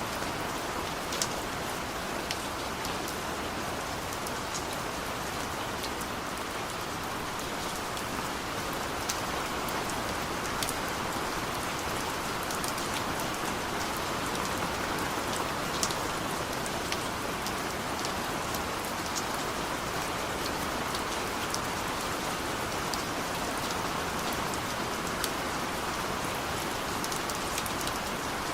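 Steady heavy rain falling, an even hiss with individual drops pattering and clicking sharply through it.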